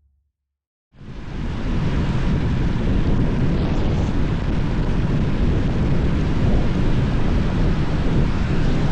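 Steady rush of wind buffeting the microphone, mixed with the road noise of a moving vehicle. It starts suddenly about a second in, after a moment of silence.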